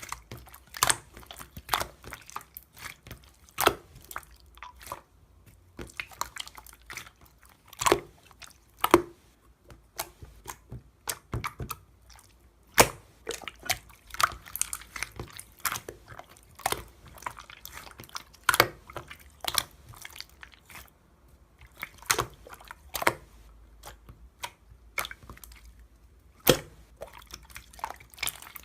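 Clear slime squished and pressed by hand, giving irregular wet clicks and pops, a few a second.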